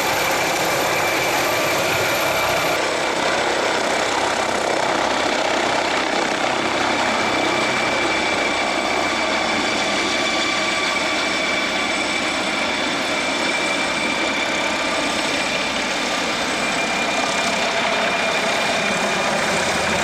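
Steady mechanical running sound like an idling engine: an even, dense noise with several fixed whining tones, unchanging in level throughout.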